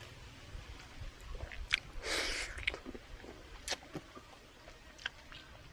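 A person chewing and biting into a meal of braised pork leg with fresh vegetables. Scattered short wet clicks run through it, with a louder noisy burst about two seconds in.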